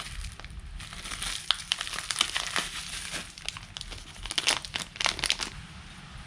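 Irregular crinkling and clicking of something being handled, a quick run of sharp crackles that stops about five and a half seconds in.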